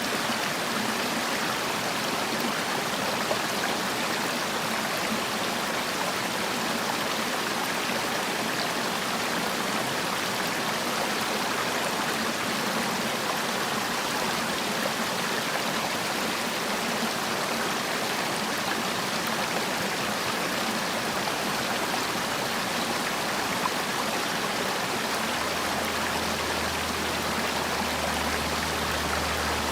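Water of a mountain valley stream rushing and splashing over rocks, a steady, unbroken flow.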